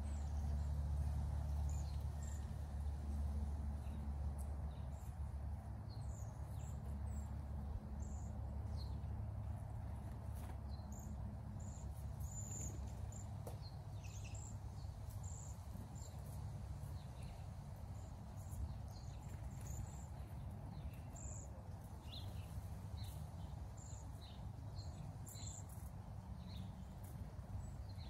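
Small songbirds giving short, high chirps scattered irregularly throughout, over a steady low background rumble.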